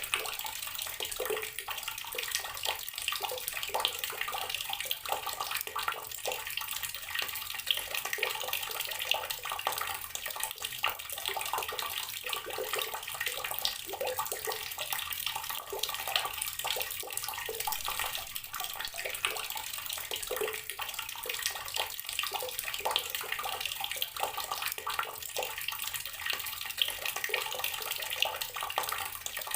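Water running steadily from an outdoor tap and splashing below, a continuous splatter with no change in flow.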